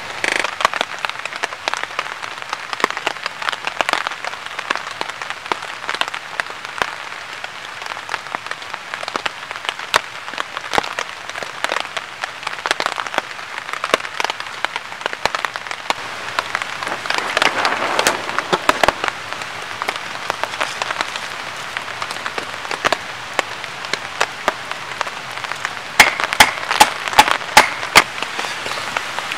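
Rain falling, with drops pattering irregularly, and a burst of louder, sharper taps near the end.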